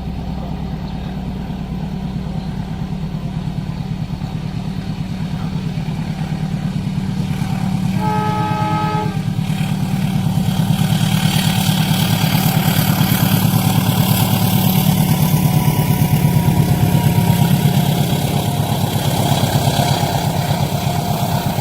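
A diesel-hauled train approaching and passing: a steady low engine rumble that grows louder, a single horn blast of about a second near the middle, then wheel-on-rail noise building to its loudest near the end.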